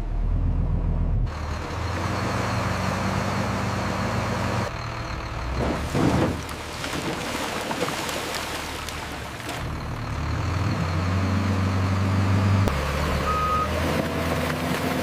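Heavy truck engine running, its pitch stepping up and down, with a short burst of noise about six seconds in and a brief high beep near the end.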